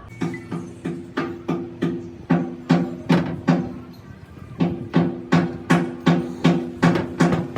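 Steady rhythmic knocking, about three sharp strikes a second, each with a ringing tone, pausing briefly about halfway through before resuming.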